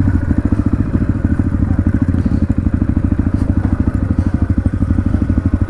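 Dirt bike engine running at low, steady revs, a rapid, even chugging.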